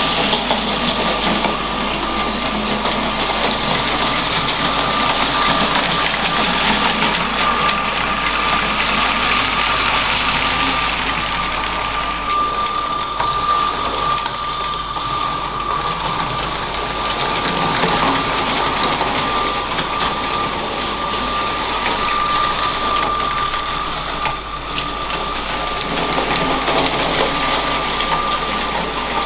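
Small electric motor of a LEGO train running steadily, with a constant high whine over the noisy rattle of the train running on plastic track.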